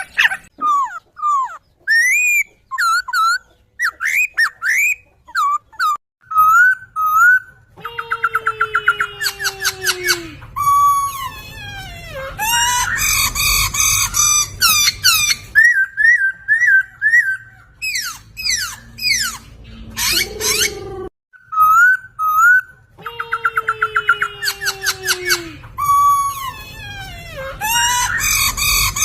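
Poksay (laughingthrush) song: loud whistled notes swooping up and down, mixed with fast runs of repeated notes and harsh chattering. The sequence breaks off about 21 seconds in and starts over, as a looped tutor recording.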